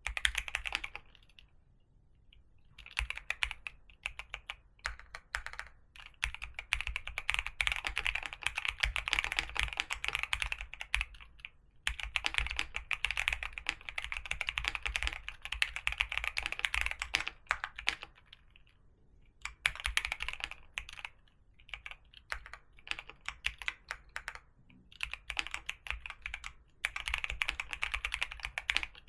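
Typing on a keyboard: long runs of rapid keystrokes, with short pauses about two seconds in, near the middle and a little past the middle.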